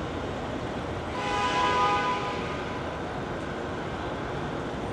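City street traffic noise, with a brief loud squeal over a hiss starting about a second in and lasting about a second and a half.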